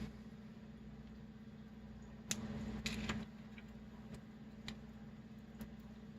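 Faint handling of a small plastic scale model as masking is peeled off: a sharp click about two seconds in, then about a second of scratchy rustling, and a few light ticks afterwards, over a steady low hum.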